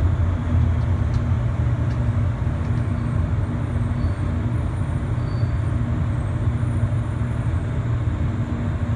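Airport people-mover shuttle running along its guideway, heard from inside the car: a steady low rumble with a steady hum over it.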